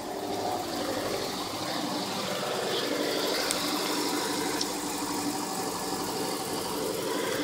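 Subaru Impreza's flat-four boxer engine idling steadily just after a cold start, with the hiss of rain over it.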